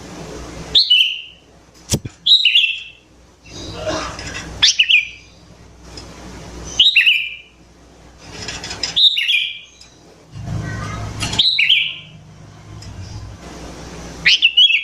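Sooty-headed bulbul (kutilang) calling: short, bright, bubbly rising-and-falling phrases repeated about every two seconds, seven times, played as a lure call to draw other bulbuls to answer. A sharp click sounds once about two seconds in.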